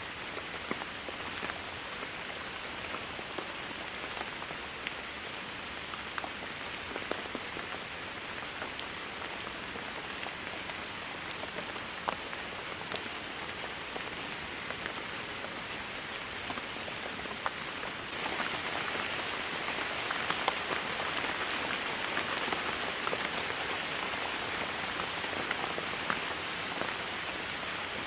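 Steady rainfall, an even hiss with scattered individual drops ticking. It turns louder and heavier about two-thirds of the way through.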